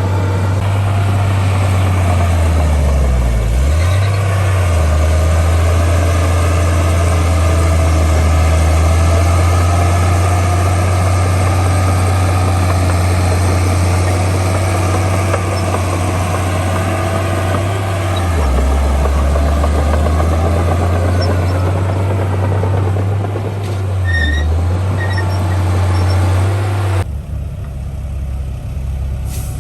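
Heavy diesel engine of earthmoving machinery running steadily, its deep note sagging briefly a few times as if under load. Near the end the sound changes abruptly to a different, lighter engine sound.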